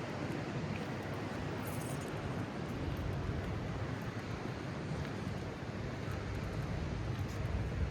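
Steady oceanfront outdoor ambience: wind rumbling on a phone microphone over a wash of surf noise.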